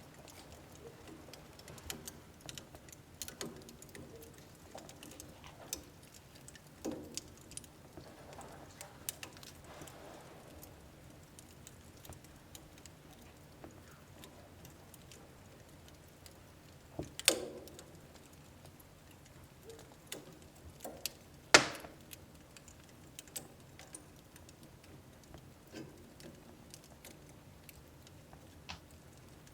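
Wood fire burning in a home wood stove, with a soft steady hiss and irregular crackles and pops from the burning logs; two sharper, louder pops stand out, about 17 and 21 seconds in.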